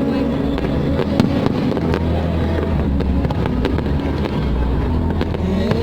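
Aerial fireworks display: a dense run of shell bursts and crackles over a continuous low rumble of booms, with a sharp bang about a second in.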